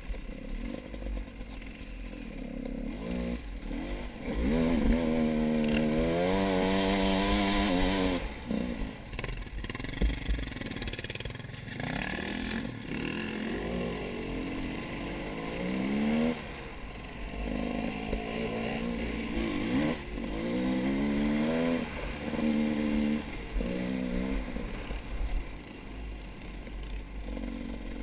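A vehicle engine revving up and down unevenly in several stretches, its pitch wavering. The longest stretch runs from about four seconds in to eight seconds in, and there are more in the second half.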